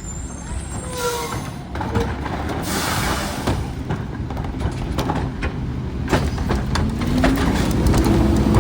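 Garbage truck's engine running with scattered metal clanks and knocks, and a short hiss a few seconds in. Near the end a whine rises and then holds steady.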